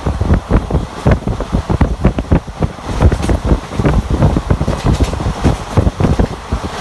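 Express passenger train running at speed, heard from on board: a steady rumble of wheels on the track with rapid, irregular clatter and wind buffeting the microphone.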